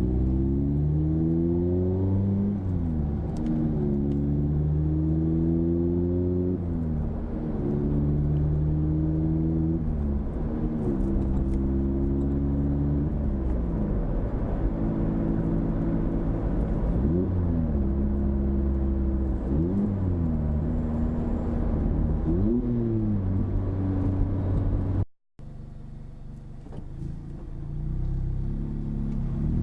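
Mazda MX-5 Miata (ND) four-cylinder engine through an aftermarket AIMGAIN valved exhaust, the revs repeatedly rising, holding and dropping, with several quick revs. It cuts out briefly near the end, then comes back quieter and builds up again.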